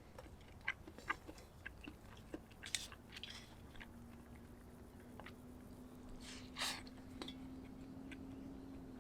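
Quiet close-up clicks and small crunching noises, two of them louder, about three seconds in and near seven seconds, over a faint steady hum that sets in about two seconds in.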